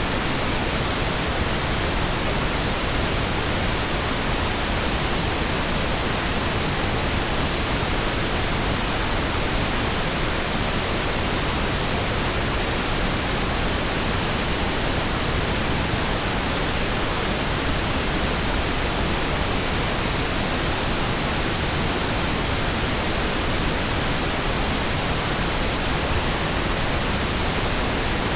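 Synthetic pink noise: a steady, even hiss that holds level without any change.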